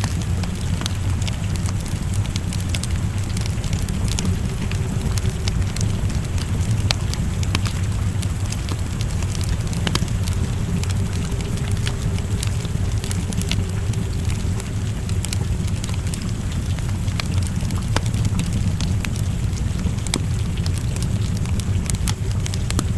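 Wood fire crackling with frequent sharp pops over a steady low rumble, with rain falling.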